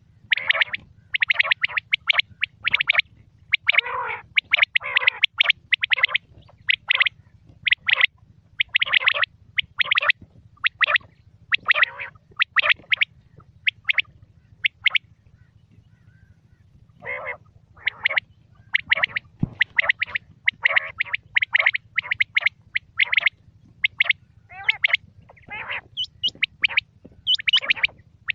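Quail calling: rapid runs of short, sharp notes repeated over and over, with a break of about two seconds midway, over a steady low hum.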